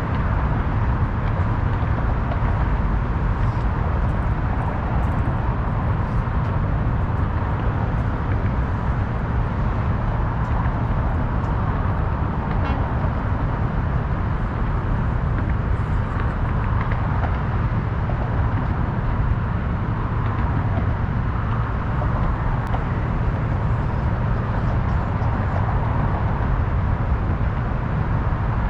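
Steady city ambience dominated by a constant low rumble of road traffic, with no distinct events standing out.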